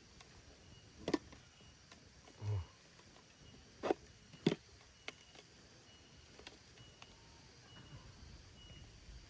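Faint short high chirps repeating evenly, about one every 0.7 seconds, from a calling animal. A few sharp clicks come about one second in and around four seconds in.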